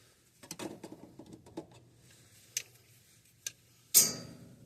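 Light clicks and taps of thick electrical wires and metal parts being worked into an air handler's breaker, with one sharp metallic clank about four seconds in that rings briefly.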